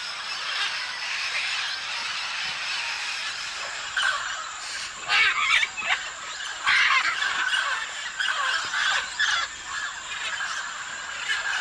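Parrots giving a series of harsh, loud squawks from about four seconds in, over a steady high-pitched background drone.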